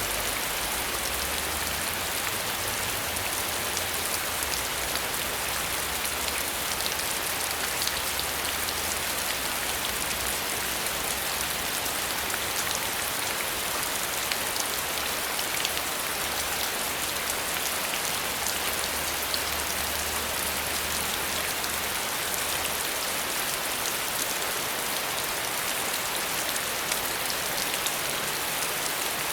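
Steady rain falling: a constant dense hiss with many small drop ticks.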